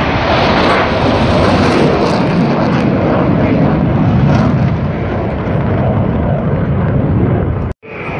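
Loud, steady roar of an aircraft flying past. It cuts off abruptly near the end.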